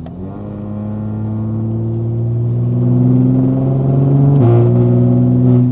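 BMW G81 M3's twin-turbo S58 straight-six, with catless downpipes and an equal-length resonated midpipe, accelerating hard with the exhaust valves open. Its pitch climbs steadily, drops once at a quick upshift about four and a half seconds in, then climbs again; very loud, with a rasp.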